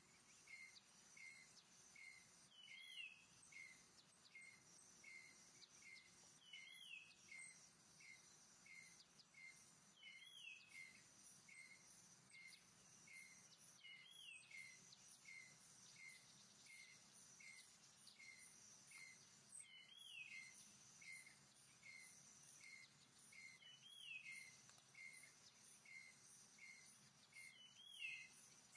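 Faint forest ambience: a bird repeats a short high note about twice a second, with a downward-sliding call every few seconds, over a steady high insect hum.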